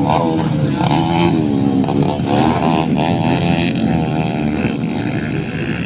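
Motocross dirt bike engine revving, its pitch rising and falling over and over as the rider works the throttle.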